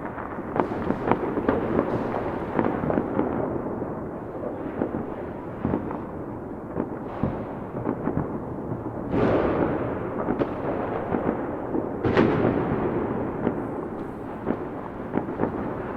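Fireworks going off: a steady crackle of many sharp pops, with two bigger bursts about nine and twelve seconds in, each fading away as it echoes.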